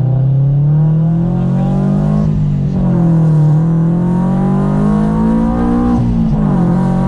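Supercharged Subaru BRZ flat-four engine with a catless header and exhaust pulling hard under acceleration. The pitch climbs, drops at an upshift about two seconds in, climbs again, and drops at a second upshift near the end.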